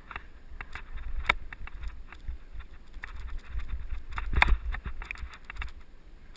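Giant mountain bike rolling over a rough dirt trail, its frame and chain rattling with frequent clicks and knocks. There is a sharper knock about a second in and a bigger jolt a little past four seconds, with wind rumble on the helmet camera's microphone.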